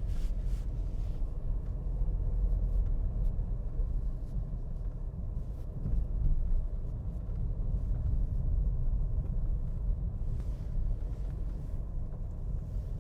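Steady low rumble of a moving car, road and engine noise with no distinct events.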